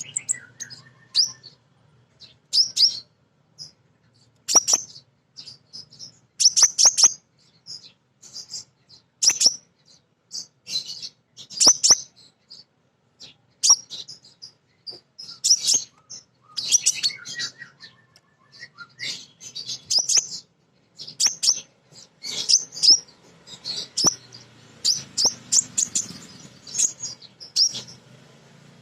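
Female sunbird (kolibri ninja) calling: many short, sharp, high chirps and brief quick twittering runs, irregularly spaced with short pauses between. A female's calling to males, the kind of call used to set male birds singing.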